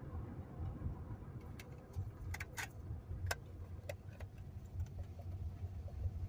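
Car driving, heard from inside the cabin: a steady low rumble of road and engine noise, with a handful of irregular sharp clicks or taps through the middle seconds.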